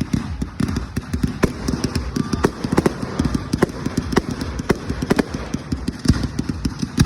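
Fireworks going off: a dense, irregular run of sharp bangs and crackles, several a second.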